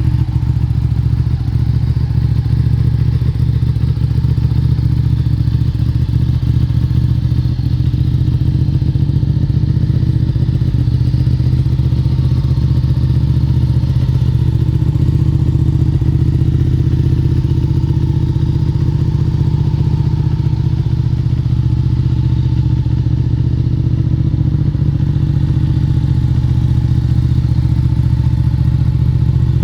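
Ducati 959 Panigale's L-twin engine idling steadily through an Akrapovic underslung exhaust, a deep, even pulsing note.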